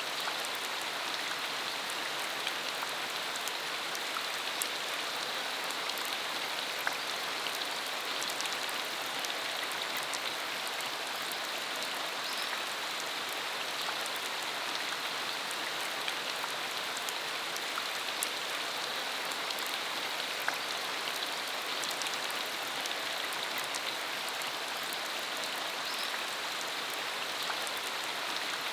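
Steady rain falling, an even hiss with scattered sharp ticks of individual drops striking.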